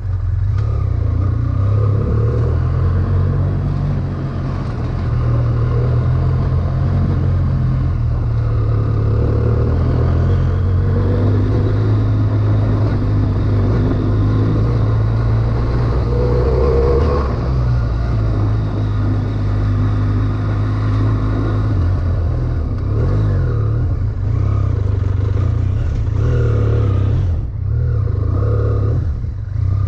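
2011 BMW F800ST's parallel-twin engine running under way, its note shifting up and down with throttle, with a brief drop in level near the end.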